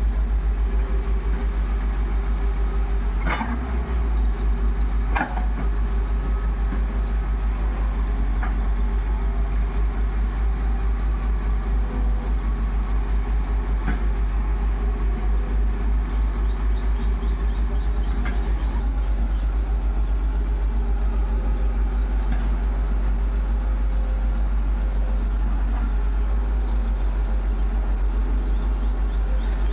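Diesel engine of a heavy machine running steadily, a low pulsing rumble, with a few sharp metallic knocks now and then.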